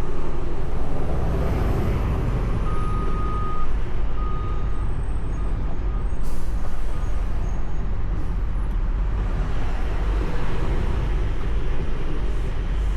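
Semi truck rolling in slow traffic, heard from inside the cab: a steady low engine and road rumble. A faint high beep sounds twice, about three and four and a half seconds in.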